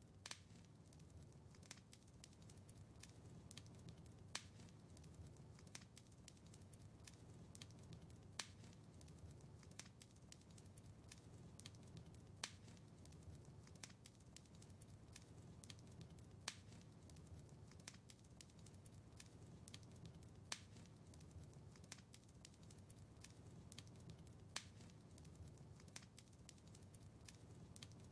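Quiet wood fire in a fireplace crackling, with frequent small snaps and a louder pop about every four seconds over a low steady rumble of flames.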